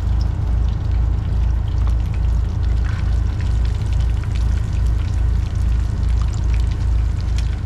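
Portable generator running, a steady low rumble that throbs about twice a second, with scattered light clinks of cookware.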